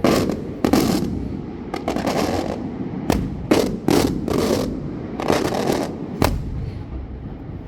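Fireworks going off in quick succession: about a dozen sharp bangs over six seconds, some landing close together, each trailing off briefly, then a lull near the end.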